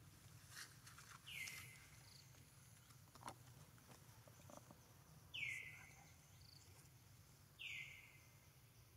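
Quiet outdoor background with a bird calling three times, each call a short whistle sliding down in pitch, the middle one loudest. A single soft click comes a little past the middle.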